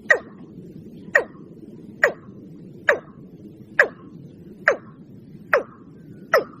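Watercock calling: a short, sharp note that falls quickly in pitch, repeated evenly about once a second, eight times, over a low steady hiss.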